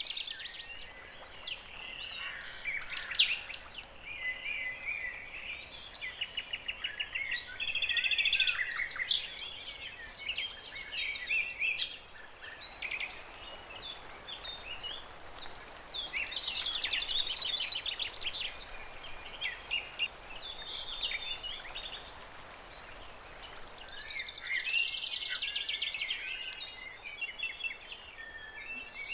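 Several songbirds singing at once: overlapping chirps and quick, fast-repeating trills that swell and fade every several seconds.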